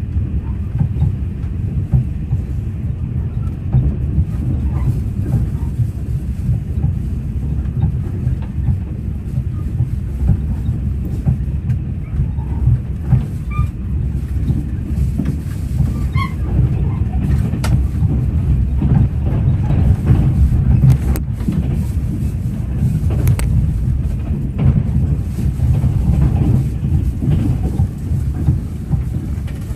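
A moving train running: a steady low rumble with a few faint clicks.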